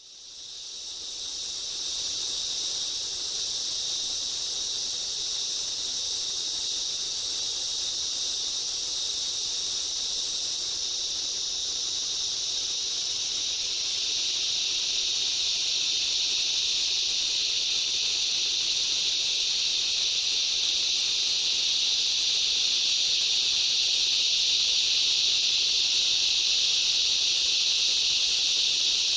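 Dense, steady chorus of insects, a high shrill hiss. It fades in over the first couple of seconds and grows a little louder about halfway through.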